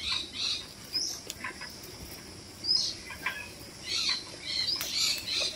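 Small birds chirping, many short high notes a few times a second, with a couple of brief rising whistles and a busier run of chirping near the end.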